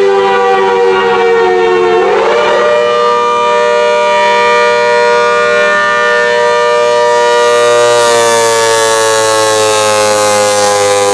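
The Hurricane outdoor warning siren sounding a steady two-note chord. Its pitch sags slowly, swings back up about two seconds in and holds, then begins to wind down gently near the end.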